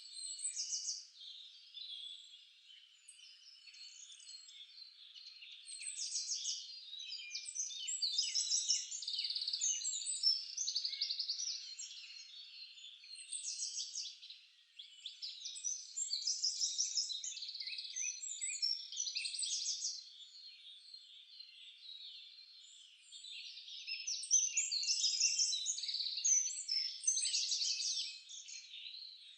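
Chorus of several songbirds singing at once, dense overlapping chirps and rapid trills, swelling and easing in waves.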